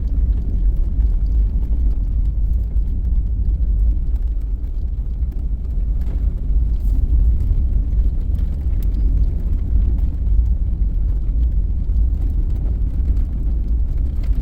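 Jeep driving along a back road, heard as a steady low engine and road rumble with faint rattles.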